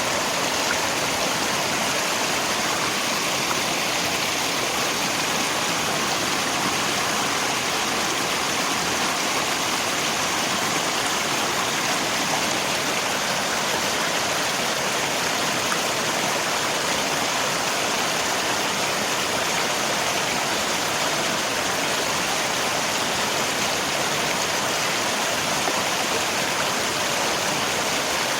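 Rain falling together with a flowing river, a steady, even rushing hiss that does not change.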